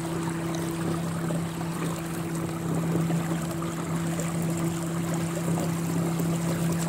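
A steady low motor hum held at one unchanging pitch, over a faint even hiss.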